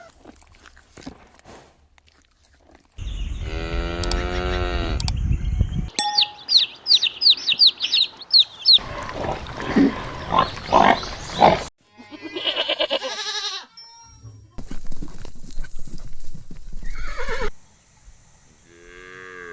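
Farm animals calling in a string of short, separately cut clips: a long pitched call, a quick run of high chirps, a rough pulsing stretch, then several shorter pitched calls, each clip starting and stopping abruptly.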